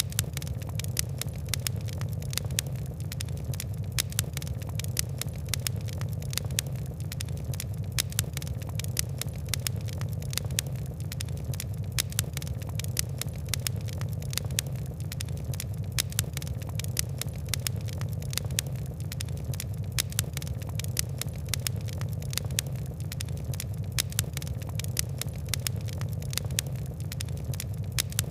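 Fire crackling: a constant run of sharp ticks and pops over a steady low rumble of burning.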